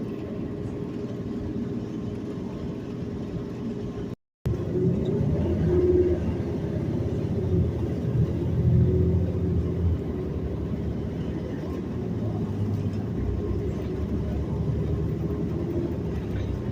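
City transit bus running, heard from inside the cabin: a steady low engine and road rumble that cuts out completely for a moment about four seconds in, then comes back louder for a few seconds, as under acceleration, before settling.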